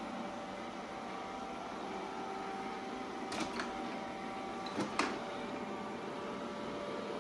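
Shark ION robot vacuum running with a steady motor hum and faint whine. A few sharp knocks come in two pairs, about three and a half and five seconds in.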